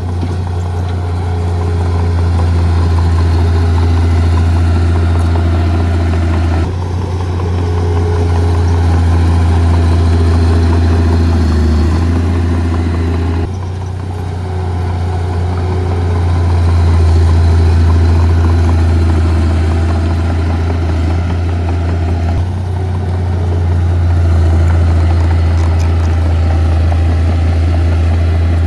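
Heavy diesel engine of earth-moving equipment running steadily with a deep hum, its sound shifting abruptly a few times.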